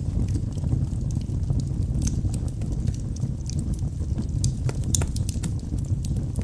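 Wood fire burning in a fireplace: a steady low roar of flames with sharp crackles and pops from the burning logs scattered throughout, a few louder pops about two and five seconds in.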